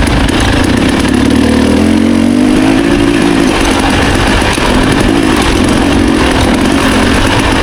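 Dirt bike engine running steadily under way on a trail, its pitch climbing about two seconds in and easing back down, then rising slightly again, as the throttle is worked.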